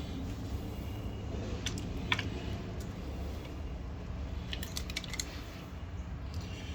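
Scattered light clicks and taps of small plastic parts being handled and pulled off a septic aerator pump during disassembly, over a low steady hum.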